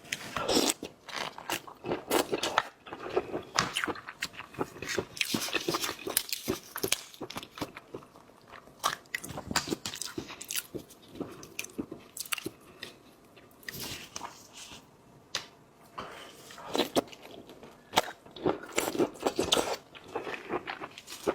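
Close-miked crunching, chewing and smacking of shellfish being eaten, in dense bursts with short pauses.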